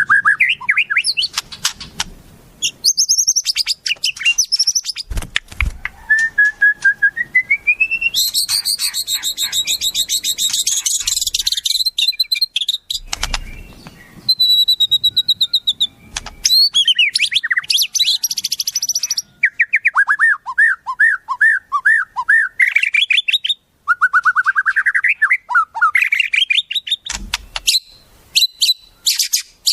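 Wild songbird calls and songs used as magpie-robin tutoring audio. Several birds follow one another, the song changing every few seconds: quick sharp chirps, a long dense buzzy trill, then series of fast whistled notes swooping down and up.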